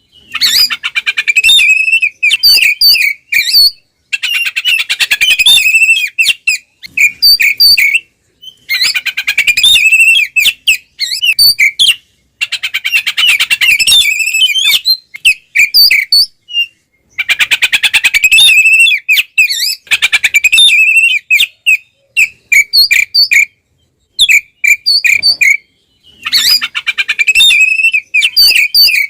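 Oriental magpie-robin (kacer) singing its loud, full-voiced fighting song, a territorial challenge: rapid, varied chattering notes and whistles in bursts of one to four seconds, broken by short pauses.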